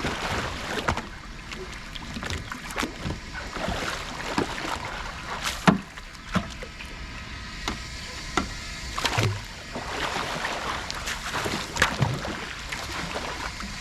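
Water splashing and sloshing around a sea kayak as it capsizes and is hauled back upright in a Greenland roll, with irregular splashes and knocks throughout. The roll is a struggle that only just succeeds.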